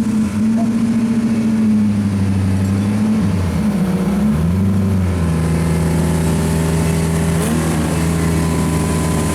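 Turbocharged drift car engine running, its revs wavering, dipping briefly about four seconds in, then held steady.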